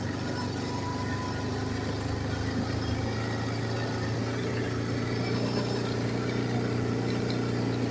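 ATV engine running steadily while riding along a road.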